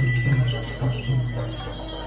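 Jingling bells over music with a low, pulsing beat.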